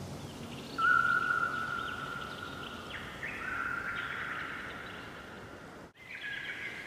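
Birdsong: long, level whistled notes with short chirps above them, over a faint hiss. The sound cuts out for an instant near the end.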